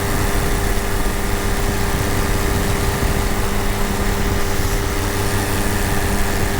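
Paramotor engine and propeller running steadily at a constant pitch, with a dense hiss over the top.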